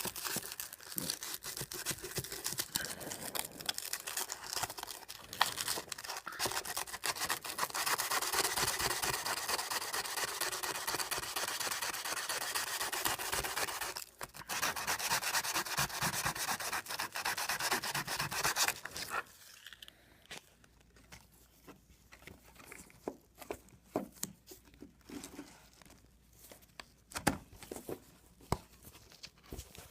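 Sanding of a cracked plastic car bumper, a rasping scrub of abrasive over plastic to prepare the surface for plastic weld. It breaks off briefly about 14 s in and stops about 19 s in. Light scattered knocks and handling sounds follow.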